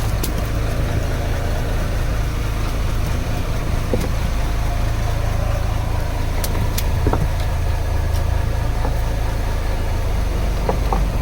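Fishing boat's engine running steadily at idle, with a few sharp knocks near the start and about six and a half seconds in.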